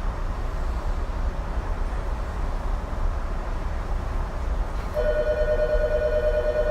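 Tokyu 2020 series electric train running, a steady low rumble heard from inside the car. About five seconds in, a steady two-note ringing tone starts and carries on over the rumble.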